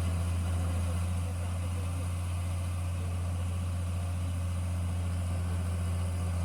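Engine of a paddy-field harvesting machine running steadily at a constant speed, a low even drone.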